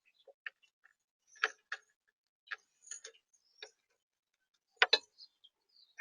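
Irregular light clicks and taps at a backyard feeder, about a dozen, unevenly spaced, with the loudest near the middle and shortly before the end.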